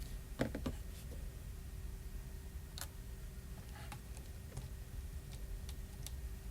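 Scattered light clicks and ticks of small tools and tiny parts handled on an opened smartphone: a quick group of three in the first second, then single clicks every second or so, over a steady low hum.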